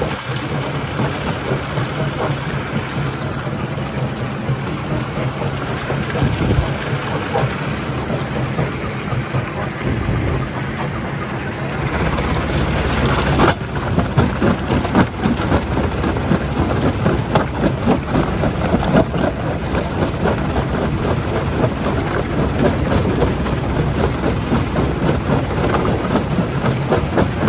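Stone jaw crusher running with a steady low drone while rocks crack and clatter through it; about halfway in, a rushing surge gives way to denser, continuous clattering.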